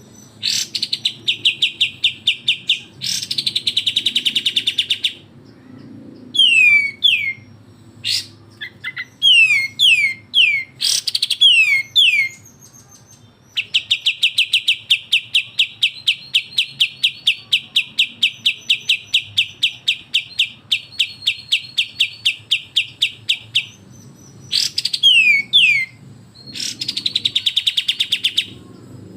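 Kapas tembak and cucak jenggot, two bulbuls, calling in agitated 'besetan' bouts, the kind played to rile rival birds. The calls are fast, even rattling trills broken by short downward-sweeping whistles, with one long unbroken trill through the middle.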